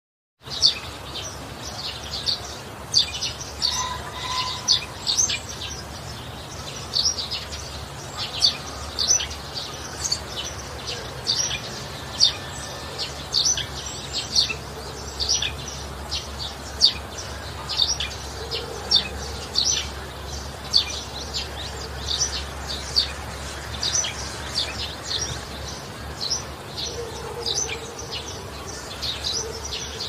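Songbirds chirping: many short, high chirps, a few each second, over a steady low hum.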